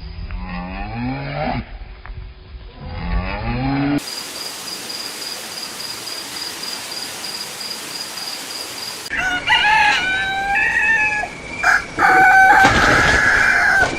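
A run of separate farm-animal sound clips. First comes cattle mooing, low calls rising in pitch, twice. After a few seconds of steady hiss, a rooster crows twice near the end.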